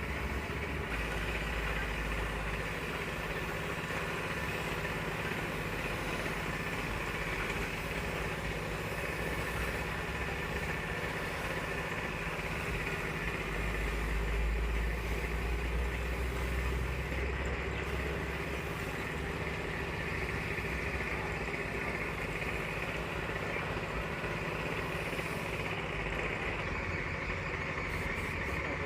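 A motor running steadily with a low rumble that swells for a few seconds about halfway through.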